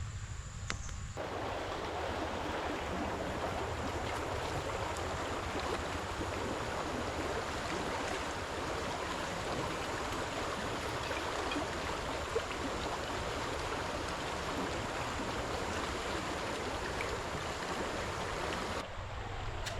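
Steady rush of running water, starting abruptly about a second in and cutting off shortly before the end.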